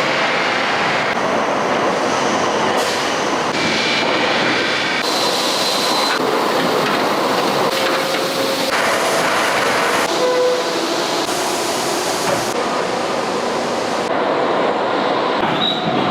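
Loud, steady heavy-industrial machinery noise from steel beam production, with brief metal squeals, changing abruptly several times as the footage cuts.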